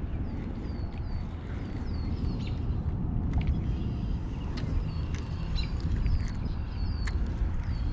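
Small birds chirping: quick, high chirps that drop in pitch, several a second, with a few steady higher notes among them. Underneath is a steady low rumble, and a few sharp clicks come through.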